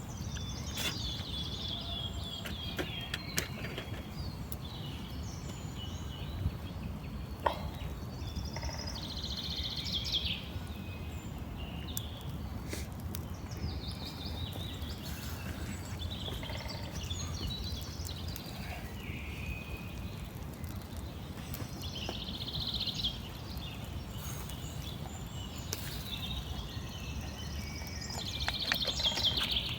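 Birds chirping and calling on and off over a steady low background rumble.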